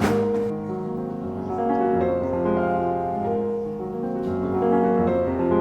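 Background music: a piano playing a slow melody of held notes.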